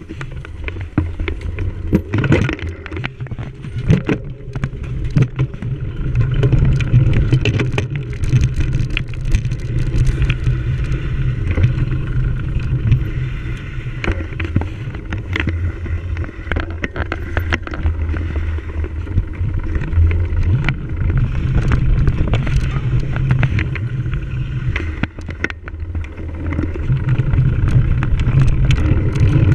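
Wind rumbling over the microphone of a camera riding along on a cyclocross bike in a race, with a steady scatter of clicks and rattles from the bicycle jolting over rough ground.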